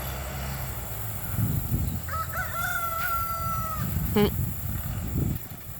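A rooster crowing once, a single long call about two seconds in, over the low rumble of a bulldozer engine working. A short sharp sound follows just after the crow.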